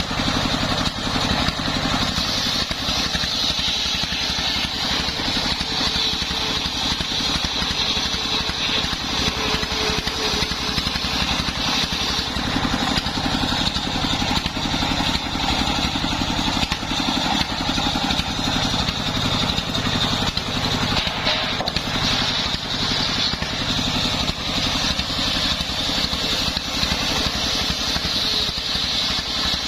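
Engine driving a homemade circular sawmill, running steadily under load, with a high whine over it from the saw blade cutting sengon wood.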